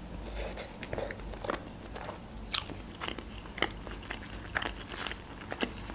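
A person biting into and chewing a baked dough roll, with irregular crunchy clicks. The sharpest come about two and a half and three and a half seconds in.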